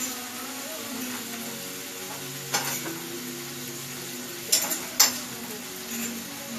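Food sizzling in a hot pan while being stirred, with a few sharp knocks of a utensil against the pan, the loudest about five seconds in.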